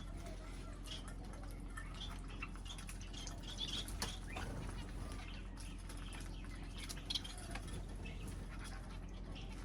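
Small pet birds such as finches and budgies chirping in quick, scattered short notes, mixed with small clicks and rustles, over a steady low hum.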